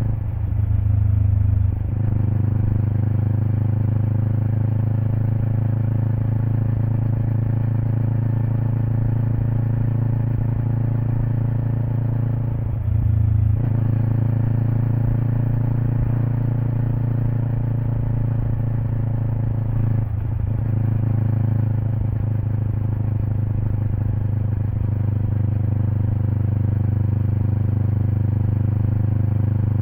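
Kawasaki Eliminator SE's 400 cc parallel-twin engine running through a BEAMS aftermarket header and muffler, heard close to the exhaust while cruising at fairly steady revs. The note breaks briefly three times: right at the start, about 13 seconds in and about 20 seconds in.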